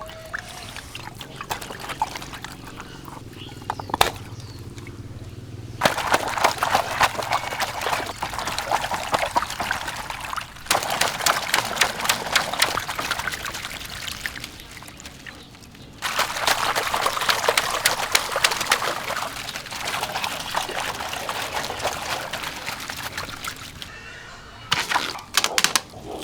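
Water pouring and splashing, in loud spells that start abruptly, with a few sharp splashes near the end.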